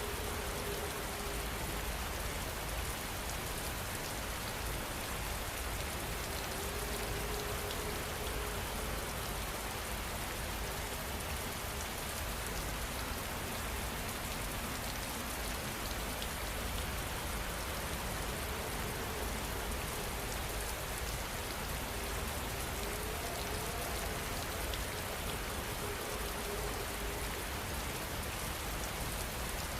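Steady, continuous rainfall: an even hiss of many raindrops falling on a surface, with no change in intensity.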